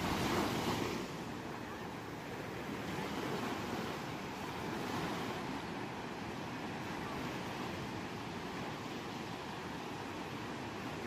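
Ocean surf washing on a shore, with a louder wave breaking right at the start and gentler swells after it.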